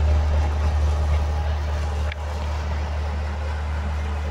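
Passenger train rolling slowly out of a station, a steady low rumble, with a faint click about two seconds in.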